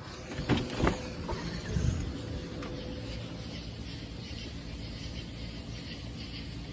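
A couple of short knocks in the first second as something is opened, then a steady low rumble and hiss of outdoor air.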